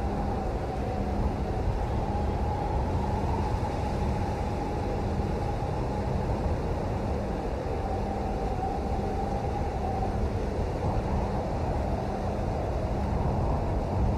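Steady rain, an even, deep rushing noise with no breaks.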